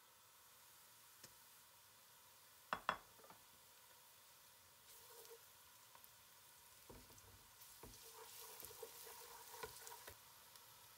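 Onions and garlic frying quietly in an aluminium pot, with a wooden spatula scraping and stirring them from about five seconds in. There are two sharp knocks about three seconds in.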